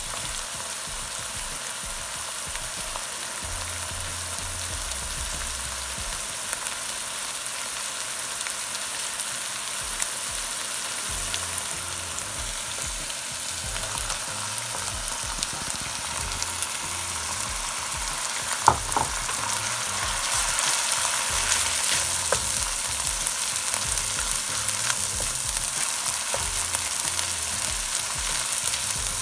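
Ginger-garlic paste frying in oil in a pan: a steady sizzling hiss, with a sharp click about two-thirds of the way in. The sizzle is a little louder from then on.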